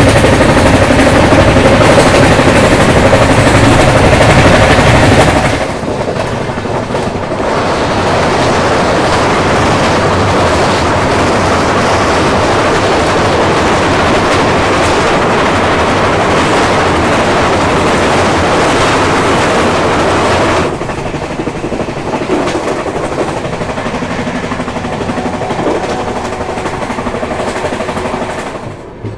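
Train running on the track: steady wheel and rail noise with rapid clacking. It comes in sections of changing loudness, the loudest in the first five or so seconds, where a steady tone rides over the noise.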